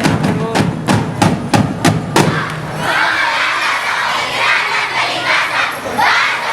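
A street-dance percussion beat of about three strikes a second stops a little over two seconds in. A crowd then shouts and cheers.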